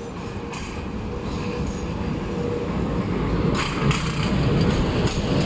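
Tram running on rails, its rumble growing steadily louder, with a few sharp clacks of the wheels over the track about three and a half seconds in.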